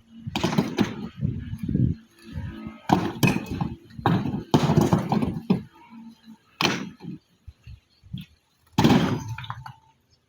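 A series of irregular thuds and knocks, about five strong ones spaced a second or more apart with smaller ones between.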